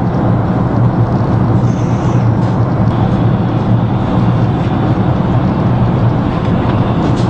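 Steady cabin noise of a jet airliner in flight: a constant low rumble of engines and airflow with an even hiss above it.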